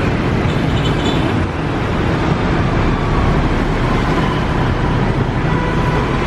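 Steady street traffic: the dense, continuous noise of passing road vehicles.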